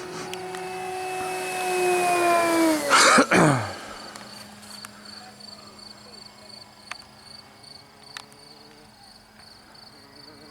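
Electric motor and propeller of an E-flite Cessna 150 Carbon-Z RC plane at full throttle, making a fast close pass: a steady drone growing louder, then a sharp fall in pitch about three seconds in as it goes by, fading away. Crickets chirp once it has passed.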